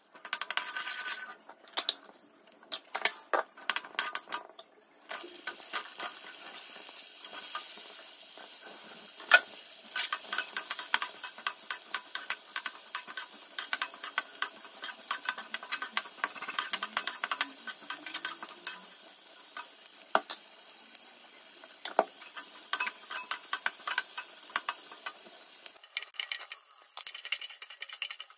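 Mustard seeds, cumin seeds and pulses crackling and popping in hot oil in a nonstick kadai. About five seconds in, a steady sizzle sets in as sliced onions fry, with a metal spoon scraping and clicking against the pan as they are stirred.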